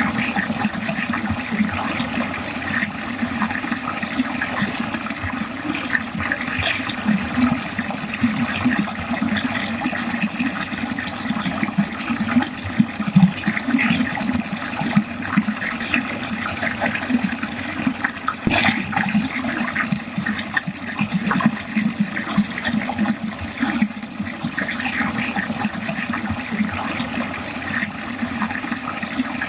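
Water running steadily down a drain, a continuous churning flow.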